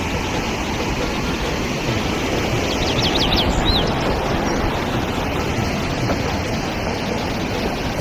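Steady, loud rushing noise, with a few quick, high bird chirps about three seconds in.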